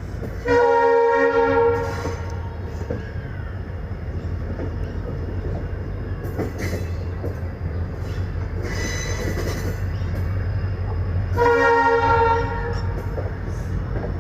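Train horn sounding two blasts, one about half a second in lasting over a second and another near the end lasting about a second, over the steady rumble of an Indian Railways ICF passenger coach running along the track.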